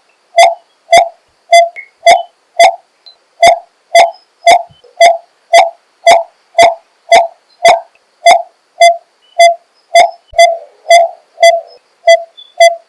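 Coppersmith barbet calling: a steady run of short, evenly spaced single notes, a little under two a second.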